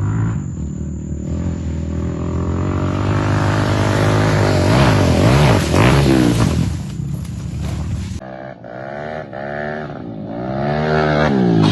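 Motorcycle engines revving up and down again and again, loud. The sound changes abruptly about eight seconds in to another engine, which goes on revving in swells.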